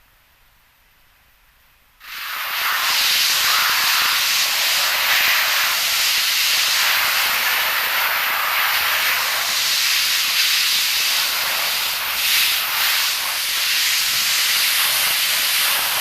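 A loud, steady hiss that starts suddenly about two seconds in and keeps going, with no tone or rhythm in it.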